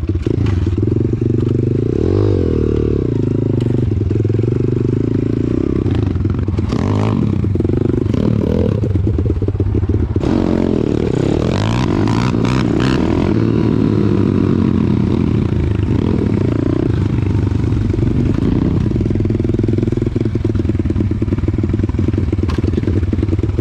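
Small single-cylinder pit bike engine running while being ridden, its revs rising and falling, with occasional knocks and rattles from the bike.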